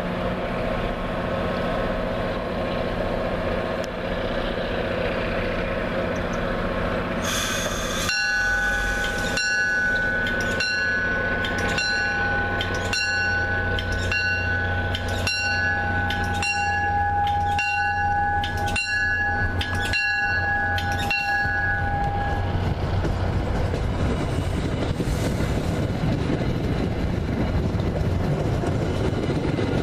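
A passenger train led by a cab car passing with a steady rumble. From about 8 s to 22 s, steady high squealing tones ring over it along with a short high ringing strike repeating about every 0.7 s. After that the rumble and rail noise carry on alone.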